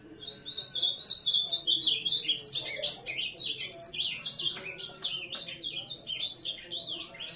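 Ultramarine grosbeak (azulão) singing: a fast, continuous run of high, warbling chirped notes starting a moment in.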